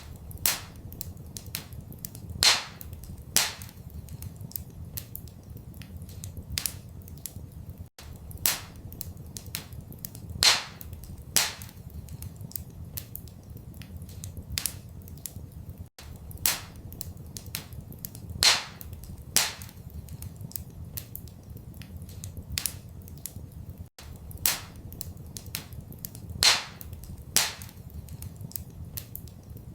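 Wood fire crackling in a fireplace, with frequent small snaps and several loud pops, over a steady low rumble. The same crackle pattern repeats every eight seconds, with a brief dropout at each repeat.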